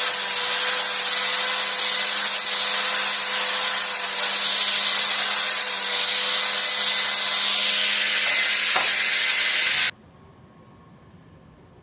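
A power tool running steadily with a constant high whine over hiss, stopping abruptly about ten seconds in.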